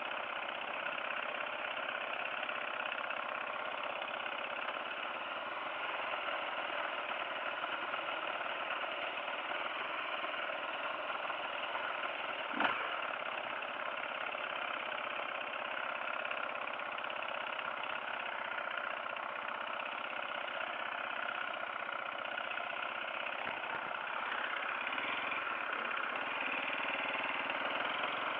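Dirt bike engine running steadily, with one sharp click about halfway through.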